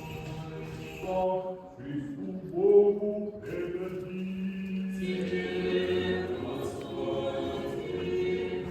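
A choir singing a slow chant, several voices holding long notes that change about once a second.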